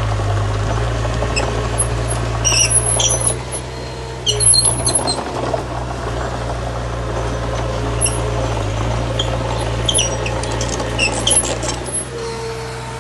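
Heavy earthmoving machinery running steadily on a diesel engine, with short high-pitched squeaks coming and going over the engine's low hum.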